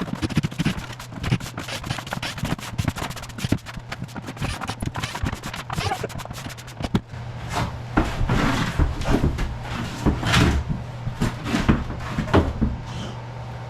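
Clattering and knocking of screws being backed out of cement board during floor demolition. Irregular rapid clicks and knocks come first, then heavier thuds and knocks from about halfway in, over a steady low hum.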